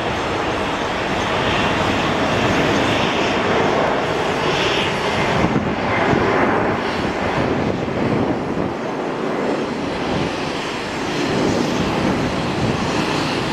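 Jet noise of a departing Boeing 747-400 at takeoff thrust: its four Rolls-Royce RB211 turbofans make a loud, steady rumble.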